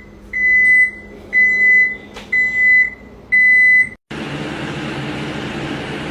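Credit card machine beeping steadily, four long beeps about a second apart. About four seconds in it cuts off abruptly and a steady hiss takes over.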